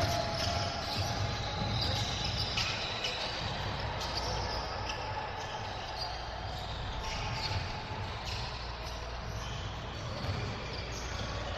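Game sounds in a gym during a youth basketball game: a basketball bouncing on the court amid the voices of players and spectators.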